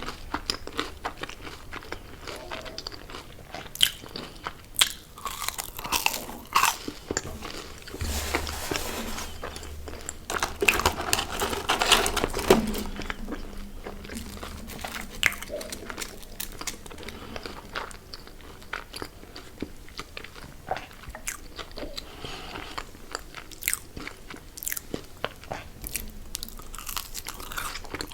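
Close-miked eating of crunchy fried fast food: sharp crunching bites and chewing throughout, with a denser, noisier stretch of crunching about eight to twelve seconds in.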